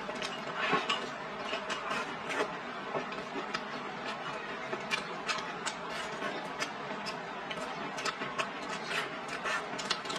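Close-miked chewing of a mouthful of rice and stir-fried greens: wet mouth clicks and smacks, several a second and irregular, over a steady hiss.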